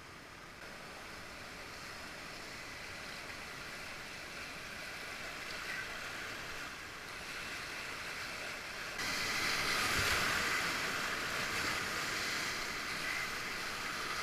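Rushing whitewater river, a steady hiss that grows louder and jumps up sharply about nine seconds in.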